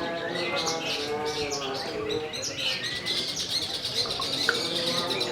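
Several long-tailed shrikes (cendet) singing at once, a dense, continuous tangle of rapid chirps, trills and whistles.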